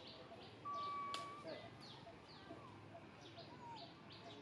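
Wild birds chirping, a quick series of short, high, falling chirps. About a second in, a louder, steady whistle-like call is held for about half a second.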